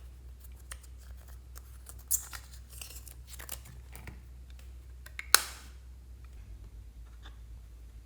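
Close-up handling sounds of slime and makeup being worked by hand: scattered small crackles and clicks, a sharp click about two seconds in and a louder snap about five seconds in.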